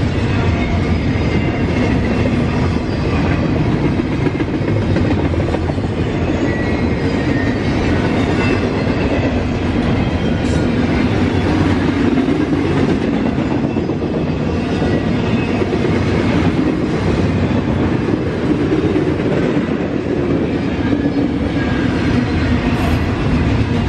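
Freight cars of a passing Norfolk Southern train rolling by: a steady, loud rumble with wheels clicking over the rail joints and faint high squeals now and then.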